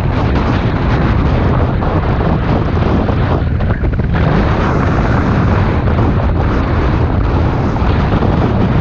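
Loud wind rumble buffeting the microphone of a moving motorbike, with traffic and road noise underneath.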